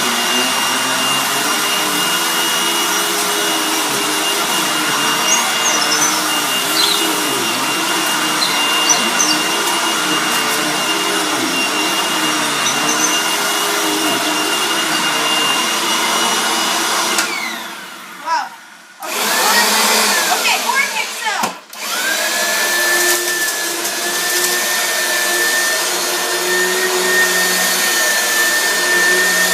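Vacuum cleaner motor running with a steady high whine for about seventeen seconds, then winding down. A vacuum is switched on again, cuts out briefly, and then runs on with a lower steady whine.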